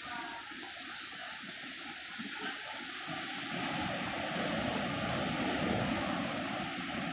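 Sea waves washing onto a beach. A surge swells about three seconds in and eases off near the end.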